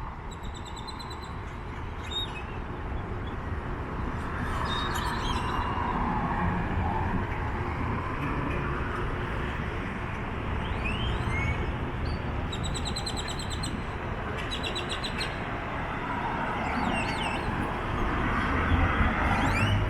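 Flock of birds calling loudly from street trees: repeated fast rattling trains of high notes and several sharp upward-sweeping whistles. Steady city traffic rumble runs underneath.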